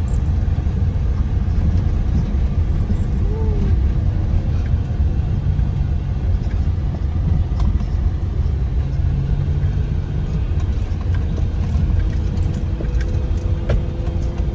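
A car driving: a steady low rumble of engine and road noise, with a few faint clicks near the end.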